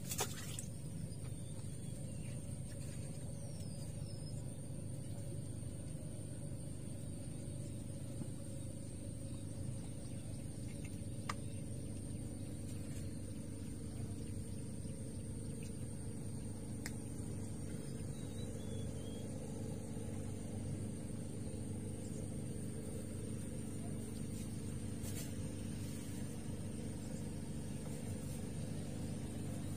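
Steady low hum of a distant engine, unbroken throughout, with a faint high steady tone above it. A few light clicks stand out, the sharpest right at the start.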